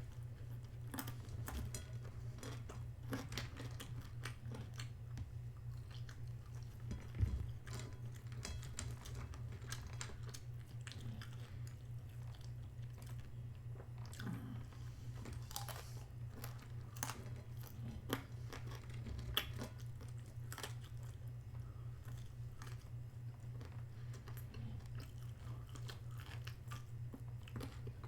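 Close-up chewing and biting of a chicken burger and fries, a run of crunchy, crackly mouth clicks. A steady low hum runs underneath, and there is one louder low thump about seven seconds in.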